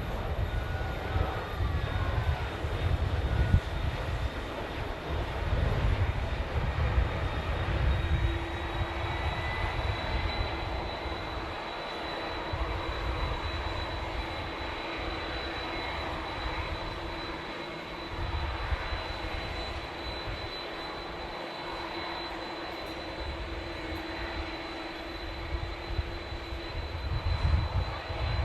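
Jet airliner engines running: a steady high whine over a low, uneven rumble, louder for the first eight seconds or so and then easing.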